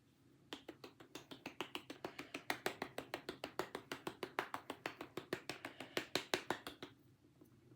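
Pepper being ground onto salmon from a pepper mill: a quick, even run of sharp clicks, about seven a second, starting about half a second in and stopping shortly before the end.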